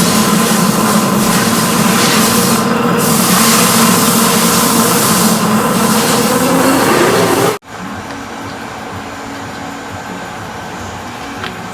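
Metalworking machine running steadily, a loud noise with a low hum and a tone that rises slightly just before it cuts off suddenly about two-thirds of the way through. A quieter steady machine hum follows.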